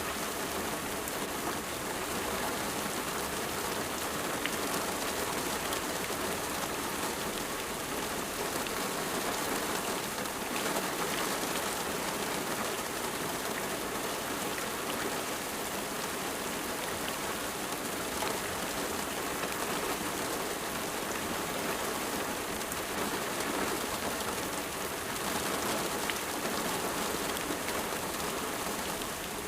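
Steady rain falling and pattering on surfaces, an even unbroken hiss with fine drop ticks throughout.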